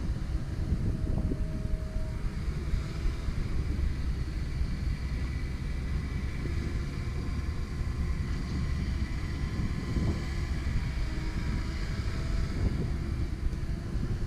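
Komatsu PC170LC-10 excavator's diesel engine running steadily under work, with faint steady high tones over it.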